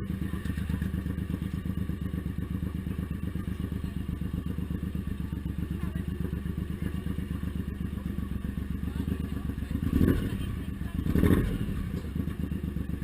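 Suzuki Intruder M1800R's V-twin engine running steadily with an even pulsing beat, with two brief louder thuds near the end.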